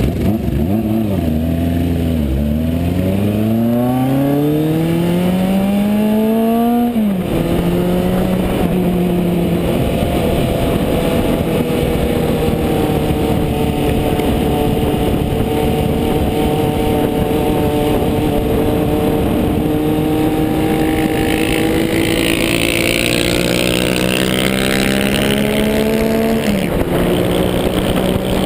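1974 Honda CB550 Four's air-cooled inline four-cylinder engine running through a MotoGP Werks aftermarket exhaust while riding. The revs dip, then climb for about five seconds and fall abruptly about seven seconds in. After that it holds a long steady cruise that slowly rises, and the revs drop sharply again near the end.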